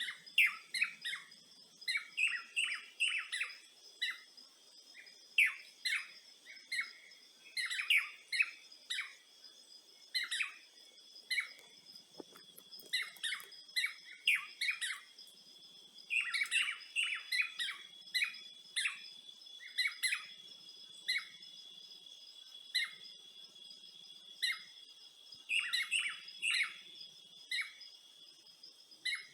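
Songbirds chirping in quick, busy runs of short notes, over a steady high insect drone of crickets or cicadas.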